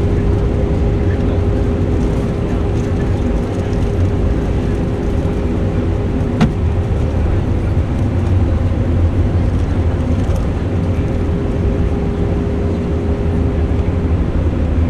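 Airbus A318 cabin noise on the ground after landing: the engines' steady hum with a constant mid-pitched tone over a heavy low rumble. A single sharp click sounds about six seconds in.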